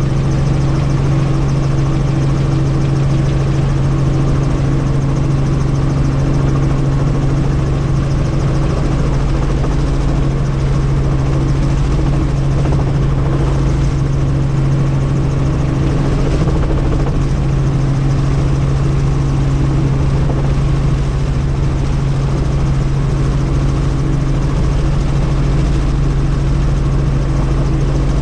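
Helicopter's engine and rotor running steadily: a loud, unchanging low hum with a strong steady low tone.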